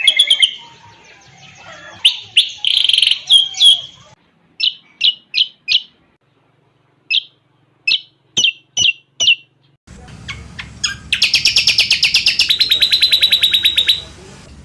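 A cucak combok (a leafbird) singing a varied song: sharp high chirps and short whistled notes, then from about ten seconds in a loud, very fast rattling trill lasting about three seconds.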